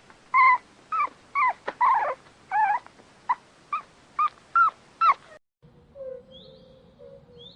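A dog whimpering in a series of short, high, falling whines, about two a second. They stop abruptly after about five seconds, and faint bird chirps over a steady hum follow.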